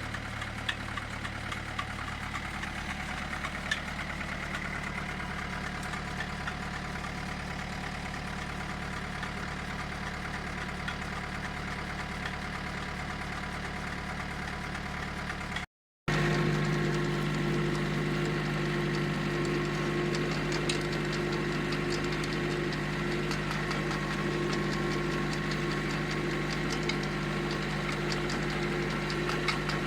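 Tractor engine running steadily as it works a homemade potato harvester, with scattered light clicks and rattles. About halfway through, the sound cuts out for an instant and comes back louder and deeper.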